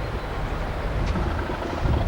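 Diesel locomotive engine running with a heavy low rumble that grows louder, plus a short click about a second in.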